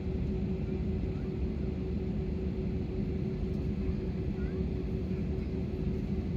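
Steady cabin noise inside an Airbus A320 on the ground: a low, even rumble with a steady hum running through it.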